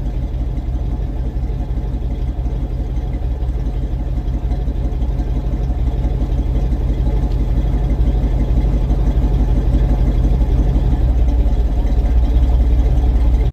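1978 Chevy C10 pickup's engine running steadily on its first start after sitting for a few years, fed by a freshly rebuilt carburetor; it gets a little louder about halfway through.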